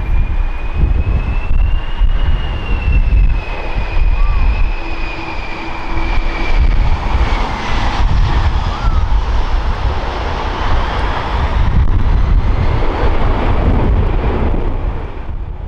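Jet airliner's engines running loud during an approach or landing. A high whine rises slightly and then slides down over a heavy low rumble, and the sound dies away at the very end.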